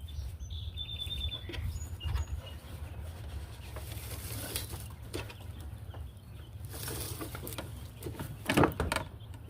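Scrapes and knocks of a wooden beehive being shifted after sitting in one place for a long time, the loudest scrape near the end. Birds chirp a few times near the start over a low steady rumble.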